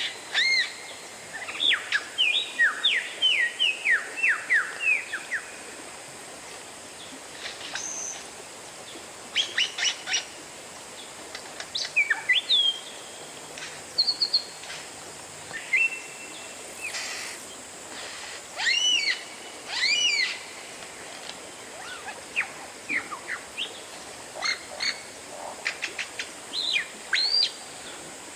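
Oriental magpie-robin (kacer) singing: loud, clear whistled notes and quick sweeping glides in short varied phrases, with pauses of a second or two between them, over a faint steady hiss.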